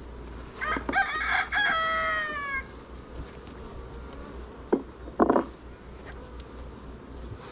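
A rooster crows once, a call of about two seconds that drops in pitch as it ends. Two short, sharp sounds follow a few seconds later.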